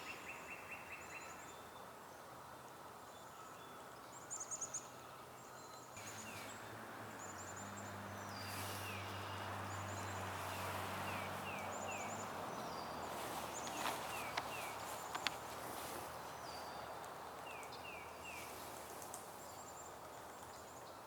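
Wild birds calling, white-breasted nuthatches among them: short high chirps repeat throughout, with quick runs of three lower notes every few seconds. A low steady hum rises and fades in the middle, and a few sharp clicks come near the middle too.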